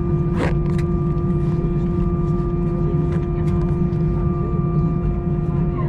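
Steady vehicle drone heard from inside, with a low rumble and several constant whining tones, a couple of clicks about half a second in, and one of the tones cutting out near the end.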